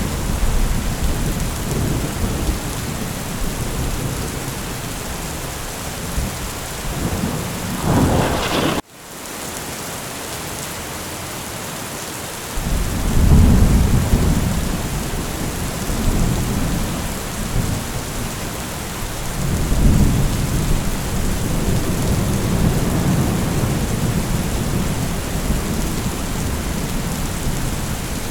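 Steady rain with low rolling thunder. About nine seconds in, the sound cuts out abruptly and comes back as rain alone. Thunder rumbles return a few seconds later and again around twenty seconds in.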